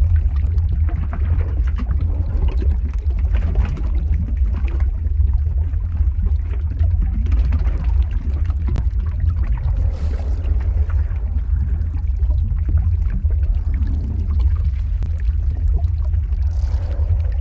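Lava-flow ambience sound effect: a steady deep rumble with scattered crackles and pops over it.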